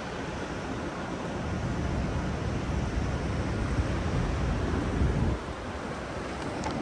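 Steady low rumble of city street traffic, an even wash of noise that dips briefly about five seconds in.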